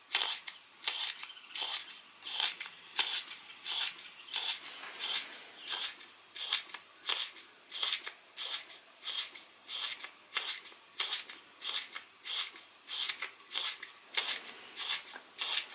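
Toy steam engine running pretty slow under the load of a Baker fan, its exhaust chuffing evenly, a little over two hissy chuffs a second.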